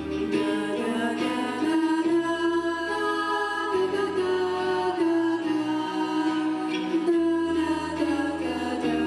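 Vocal ensemble singing long held notes without words over a backing track with a sustained bass line, during a break between the verses of a slow, mournful song.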